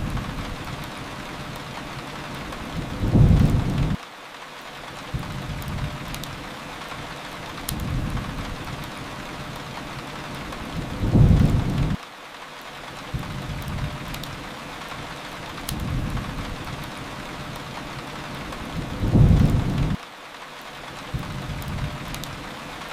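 Steady rain hiss with a low rumble, like distant thunder, that swells and cuts off sharply three times, about every eight seconds: a looped rain ambience. Faint scattered crackles from a fireplace run underneath.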